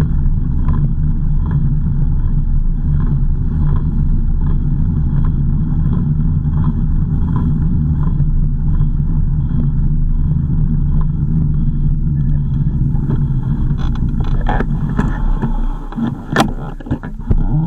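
Car driving, heard from inside: a steady engine and road rumble with a faint regular tick about every 0.7 seconds. Near the end the rumble drops and a few sharp knocks and clatters follow.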